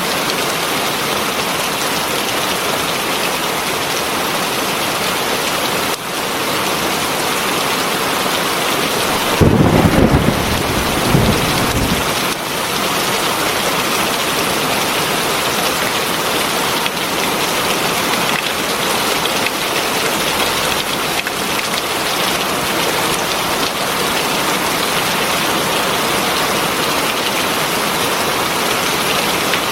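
Heavy rain falling in a steady, even hiss. About ten seconds in, a low rumble of thunder lasts a couple of seconds.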